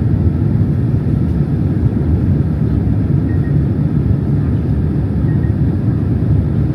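Steady low rumble of a Boeing 767-300 cabin in flight: engine and airflow noise heard from a passenger seat during the descent into Haneda, even and unbroken throughout.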